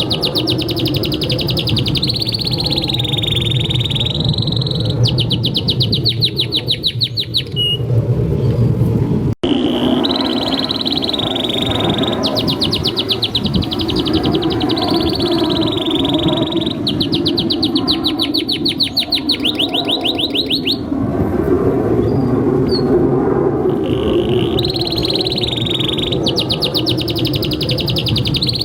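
Domestic canary singing hard and without pause: long warbled phrases alternating with fast trills of rapidly repeated notes. A steady low background noise runs underneath, and the sound cuts out abruptly for a split second about nine seconds in.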